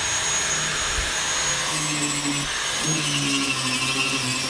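A small high-speed electric motor running steadily with a high whine, its low hum shifting in pitch now and then as the load changes.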